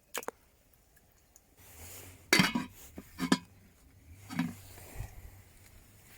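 Cookware and utensils clinking and knocking as they are handled, with several sharp knocks over a few seconds.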